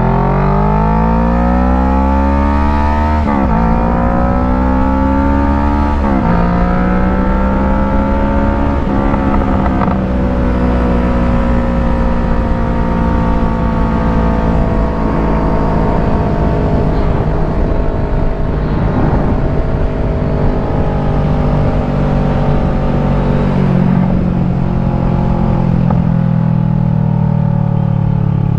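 Kawasaki Ninja 650's parallel-twin engine heard from the bike, pulling up through the gears. The pitch climbs and drops at three upshifts in the first nine seconds or so, then the engine cruises at steady revs.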